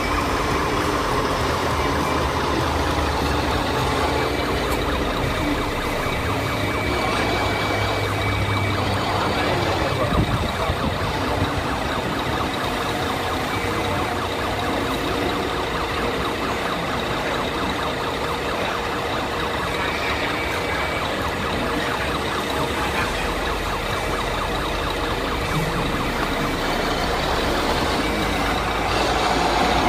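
Scale RC trucks' sound units playing truck engine and siren sounds, in a steady, dense din. A siren-like wail rises and falls near the end.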